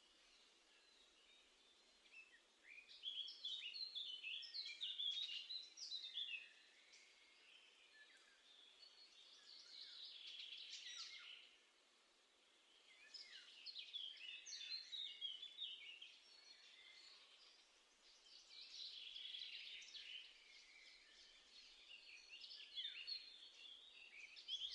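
Small songbirds chirping and twittering in five bouts of high, quick notes, each lasting two to four seconds, with short pauses between them.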